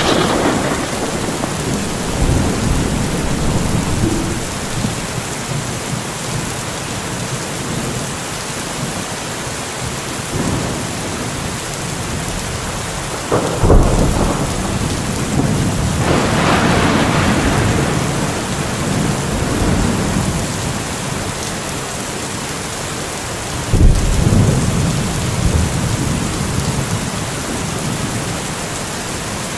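Steady rain falling through a thunderstorm. Two sharp claps of thunder, one a little before halfway and one about three-quarters of the way through, each followed by a rumble that fades over several seconds.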